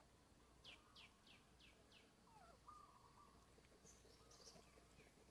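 Faint bird calls: a quick run of five high notes, each sweeping downward, about three a second. They are followed by a few lower, longer notes and scattered faint chirps.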